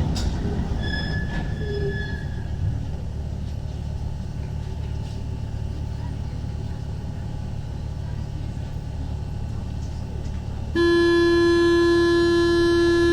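Low steady hum of a stopped Paris Métro MP 05 train at the platform. About 11 seconds in, the door-closing warning sounds: a loud, steady, buzzing tone lasting about three seconds, which signals that the doors are about to close before departure.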